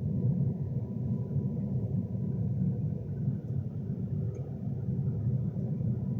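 Steady low rumble of a Class 390 Pendolino electric train running at speed, heard from inside the carriage, with a faint steady hum over it.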